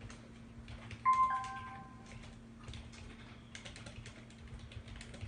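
A short electronic beep with two stepped tones about a second in, fading over about a second, over light irregular clicking and a steady low hum.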